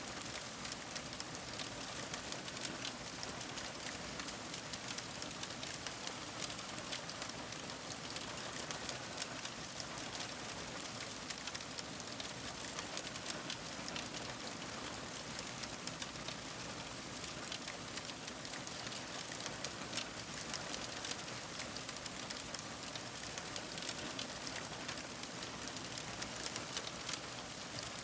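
Fire crackling: a steady hiss with dense, irregular small crackles and pops throughout.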